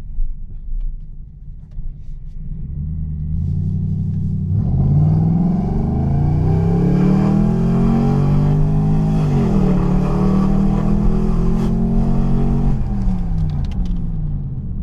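Lexus Soarer V8 with a straight-through exhaust, running low and steady for a few seconds, then accelerating with revs climbing. The revs drop briefly at a gear change about halfway, climb again, and fall away as it lifts off near the end.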